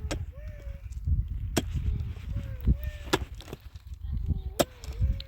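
Four sharp, evenly spaced blows of a tool on a hard material, about one every second and a half.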